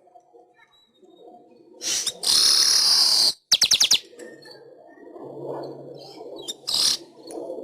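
Manyar weaver bird singing: a loud buzzy wheeze about two seconds in that lasts about a second, then a quick run of about five sharp clicks, followed by a softer, lower chatter and one short buzzy note near the end.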